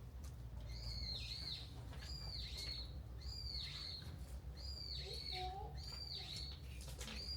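A bird calling over and over, each call a high note that holds and then drops sharply, repeated about once or twice a second.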